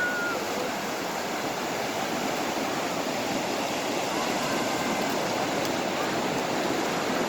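Atlantic Ocean surf washing steadily onto the beach, a constant rushing noise.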